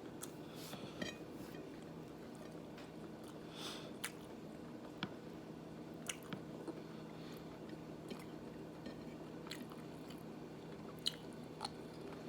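A person chewing food close to the microphone, with soft wet mouth smacks and faint scattered clicks from a mukbang meal.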